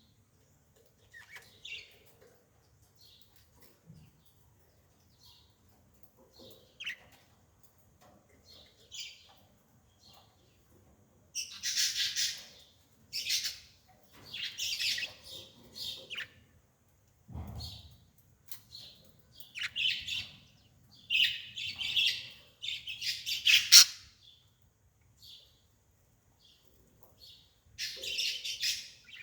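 Bird calling in short, irregular chirps and squawks, sparse at first and then louder and more frequent through the second half, with one dull low thump about two-thirds of the way in.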